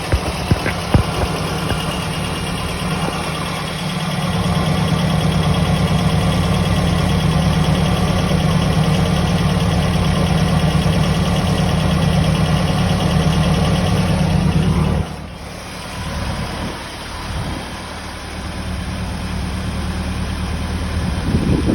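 Car engine idling, which the owner asks may be misfiring at idle. It gets louder about four seconds in and drops back suddenly a little past the middle, with a few clicks in the first second.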